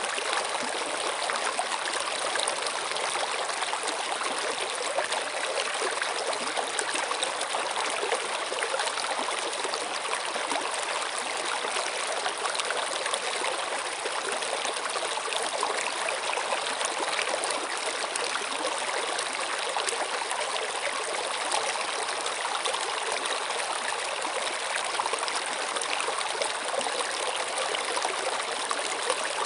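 Steady running water of a stream, an even rushing with small splashes and trickles mixed in.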